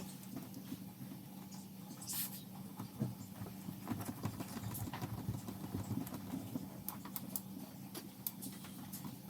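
Scattered light clicks and knocks of a kitchen mixer tap's new lever handle and fittings being handled and fitted, over a steady low hum.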